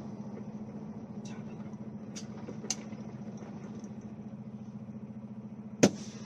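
A vehicle engine running steadily with a low, even hum, a few light clicks, and one short sharp knock near the end.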